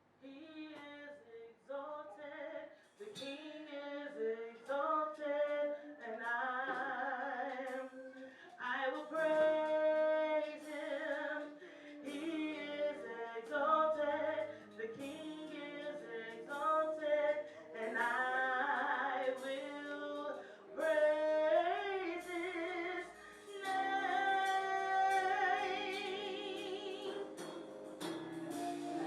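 A woman singing with vibrato over instrumental accompaniment, the singing starting right at the beginning.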